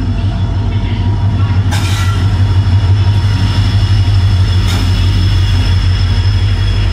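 Diesel locomotive hauling a passenger train past close by: steady low engine rumble with the running noise of the wheels on the rails, and two sharp clanks, about two seconds in and again near five seconds.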